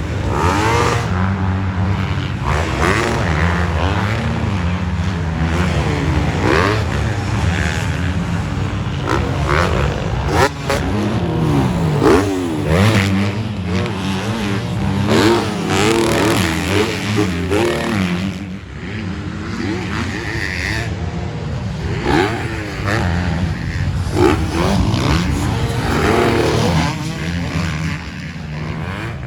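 Several motocross bikes racing on a dirt track, their engines revving up and falling back again and again as the riders work the throttle, the pitches overlapping. The sound eases somewhat about two thirds of the way through before building again.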